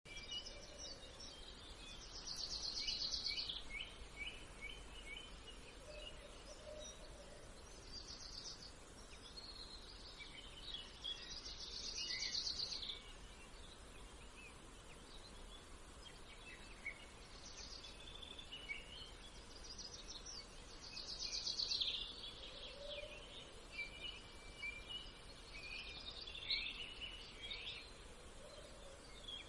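Songbirds singing: repeated high chirps and trilled song phrases, loudest about three, twelve and twenty-one seconds in, over a steady background hiss.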